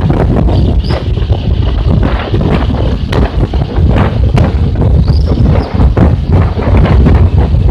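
Strong wind buffeting the microphone: a loud, choppy low rumble that rises and falls in irregular gusts.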